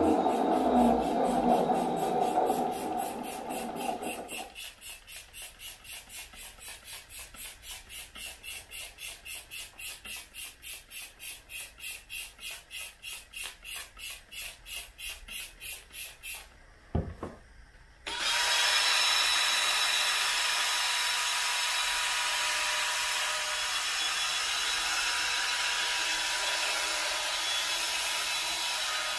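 Wet vacuum cleaner working, with the motor's sound changing partway through. For about 4 s there is a steady rush, then a rhythmic pulsing of about three beats a second for roughly twelve seconds, a single thump, a brief lull, and then from about 18 s the motor runs steadily with a thin whine.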